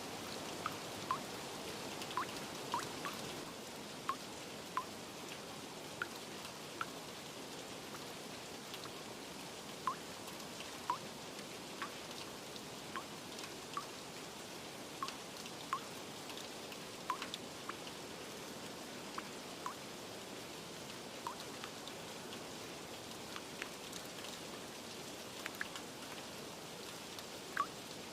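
Steady rain hiss with single drops plinking at irregular moments, about one a second.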